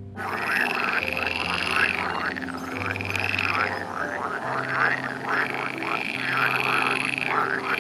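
Frog croaking, a fast run of repeated calls with only brief pauses.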